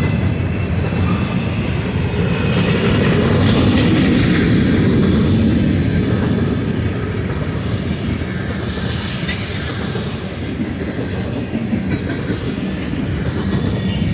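A long freight train's cars rolling past on the mainline: a steady, loud rumble of steel wheels on rail with clickety-clack over the joints, swelling a few seconds in and easing slightly after.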